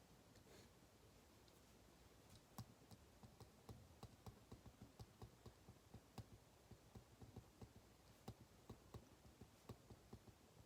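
Faint, irregular clicks and taps from someone working at a desk, several a second, starting about two seconds in over a quiet room.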